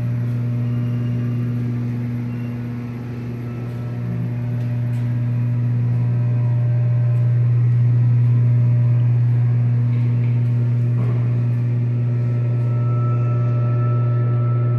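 Steady low mechanical hum, easing slightly about three seconds in and swelling again around eight seconds.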